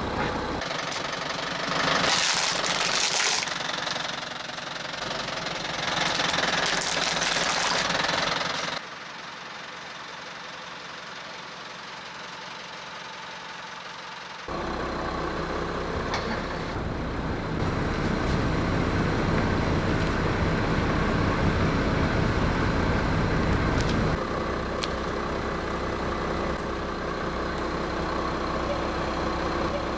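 A car engine running at low speed, in several spliced takes. Loud noisy surges fill the first eight seconds or so, and a steady engine hum takes over about halfway through.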